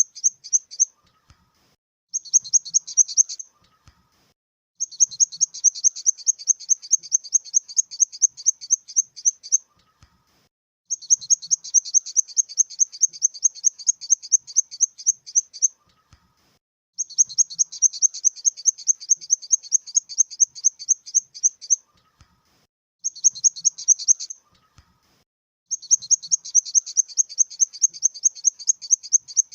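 Grasshopper stridulating: high, rapid pulsed chirping at about eight pulses a second, in bursts of one to five seconds broken by short pauses.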